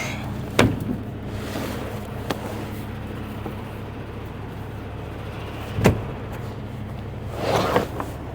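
Truck engine idling steadily, with two sharp metallic knocks, one about half a second in and one near six seconds, and a brief swishing noise near the end.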